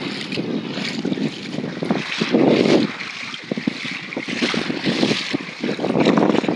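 Strong wind buffeting the microphone in uneven gusts, with a stretch of crackling in the middle.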